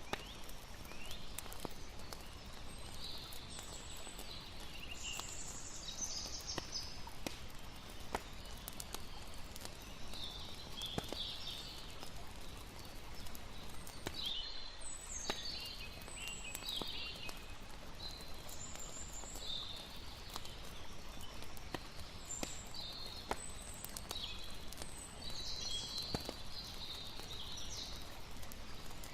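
Mixed nature ambience: a campfire crackling with scattered sharp pops, and birds chirping on and off, over a steady wash of flowing water.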